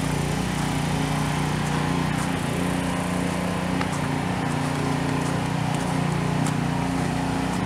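Snowblower engine running steadily at a constant pitch.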